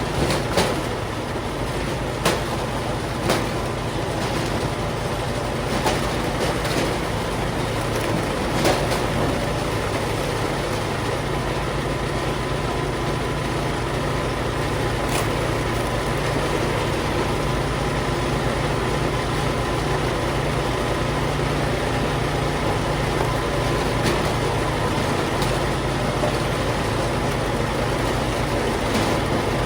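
Engine of firewood-processing machinery running steadily under load, with a few sharp knocks in the first ten seconds and one more near the middle.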